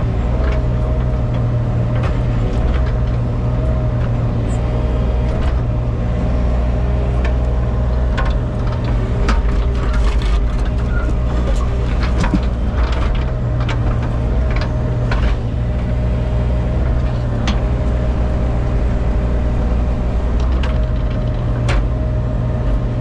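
Engine of a piece of heavy equipment running steadily at constant speed, with a steady whine over it and scattered sharp knocks and clanks as boulders are moved and set.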